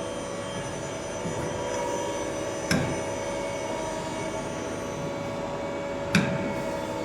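CNC turning machine running through its cycle with a steady machine hum and whine, broken twice by a sharp clunk about three and a half seconds apart.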